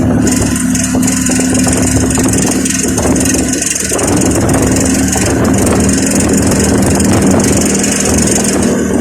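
An engine running steadily, with a steady high hiss over it.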